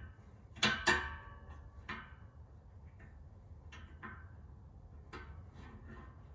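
Metal-on-metal clanks and taps, each with a short ring, as hand tools and the exhaust pipe knock together while the aftermarket cat-back is worked loose from its hangers. The loudest pair comes about a second in, followed by a few lighter knocks.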